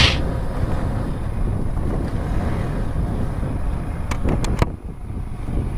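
Wind buffeting the microphone with a steady low rumble while on the move, broken by a sharp click at the start and a few quick clicks about four seconds in.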